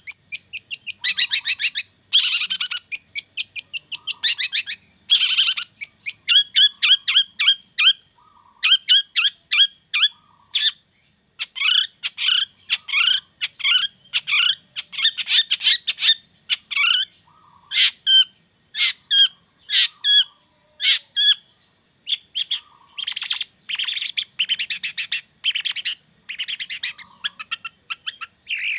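Long-tailed shrike (cendet) singing: rapid strings of short notes in phrases broken by brief pauses, with some higher notes over them.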